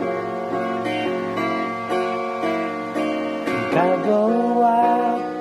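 Acoustic guitar strummed steadily through changing chords. A voice starts singing near the end.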